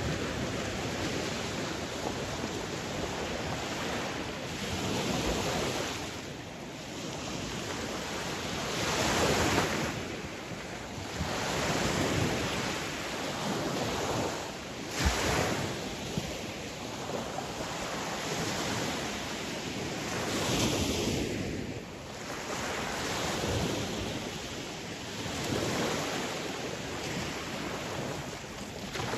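Sea waves breaking and washing on a shore, swelling and falling away every few seconds, with wind on the microphone. A brief sharp crack about halfway through.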